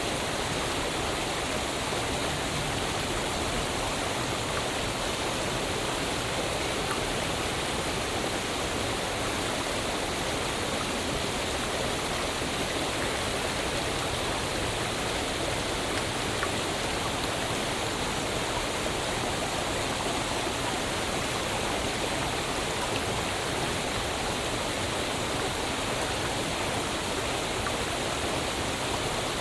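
Waterfall: water falling and rushing in a steady, unbroken noise with no change in level.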